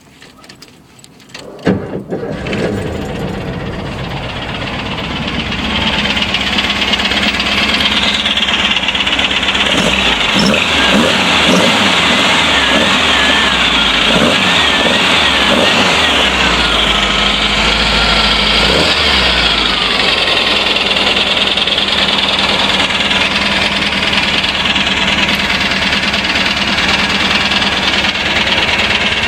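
Air-cooled VW 2110cc flat-four engine on dual Dellorto 44 carburettors starting up about two seconds in, then running steadily and growing louder over the next few seconds. The owner says the engine is due for a valve adjustment and the carburettors could be readjusted.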